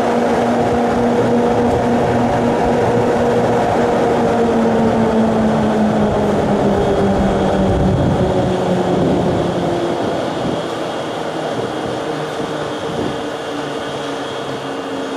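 A train running and slowing down: a steady hum over rail rumble, falling slowly in pitch, eases off somewhat in the later seconds.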